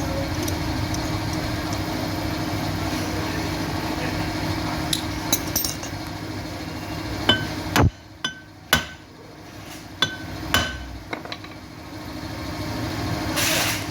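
A hammer striking metal, about six sharp blows in the second half, each with a short metallic ring, over a steady background noise that drops away after the first few seconds.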